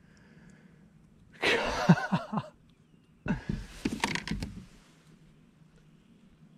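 Two short bursts of splashing about a second apart, a hooked bass thrashing at the water's surface.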